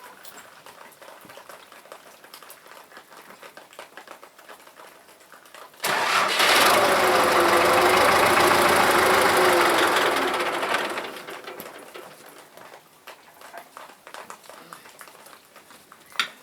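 A motor runs loudly for about five seconds, starting abruptly about six seconds in, its pitch wavering slightly, then winding down.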